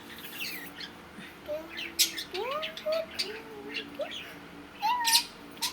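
Pet budgerigars chattering: short, wavering warbles broken by sharp, high chirps, several of them.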